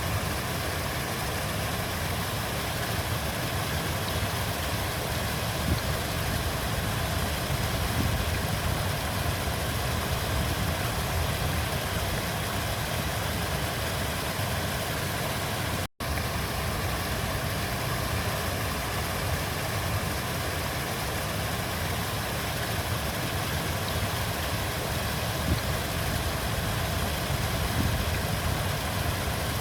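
River water flowing steadily: a continuous rush with a deep low rumble. It cuts out completely for an instant about halfway through.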